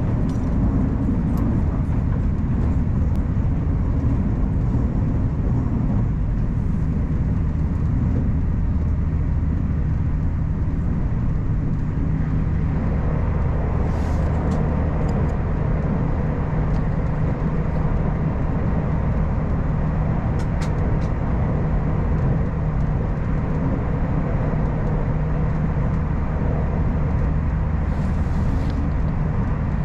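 Puyuma Express tilting electric train running steadily, a constant rumble with a low hum and a few faint high ticks.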